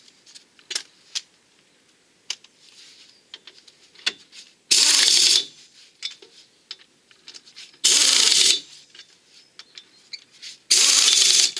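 Impact wrench running in three short bursts of under a second each, spinning and tightening the wheel bolts, with small metallic clicks and knocks of bolts and tools between the bursts.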